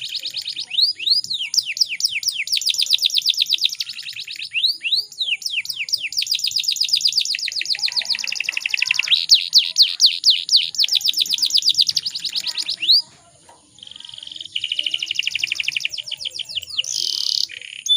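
Female canary calling in breeding condition, a call used to lure male canaries into song. It is a long run of fast trills of rising and falling chirps, broken by a brief pause about 13 seconds in, followed by steadier buzzy trills.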